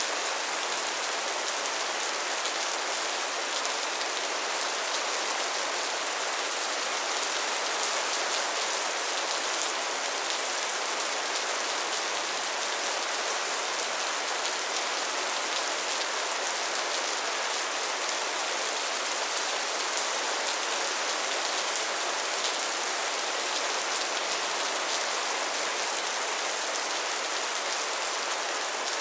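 Steady soft rain falling, an even hiss with many fine drop patters.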